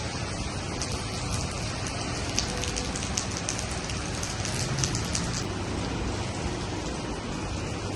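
Rain falling steadily and spattering on hard surfaces, with a low rumble underneath; the sharp drip-and-splash sounds thin out after about five seconds.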